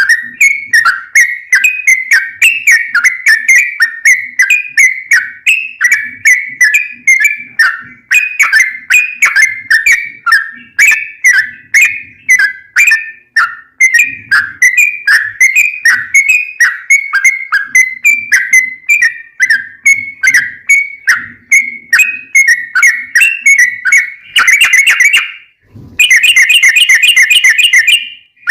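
Yellow-vented bulbul (trucukan) giving a long rapid run of whistled chirps, about three notes a second. Near the end there is a brief pause, then a faster, tighter run of notes.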